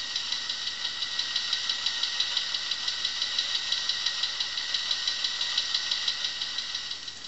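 Recorded car engine idling with a rapid, even light tapping from a noisy tappet, a cheap fault put right at a service. It is played back from a flexi-disc through a small single-speaker record player, so it sounds thin with little bass, and it fades in at the start and out near the end.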